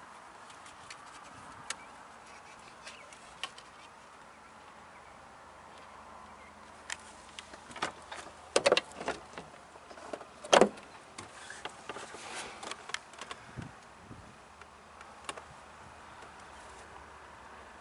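Scattered clicks and knocks of someone handling the interior of a wrecked pickup, with a cluster of louder knocks from about eight to eleven seconds in.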